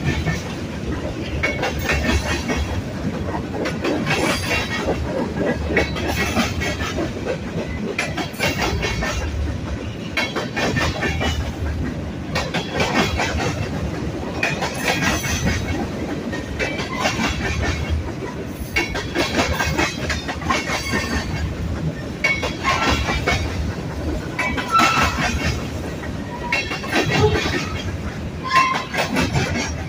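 Manifest freight train rolling past, its steel wheels clattering over rail joints in clusters that repeat every second or two as the cars go by.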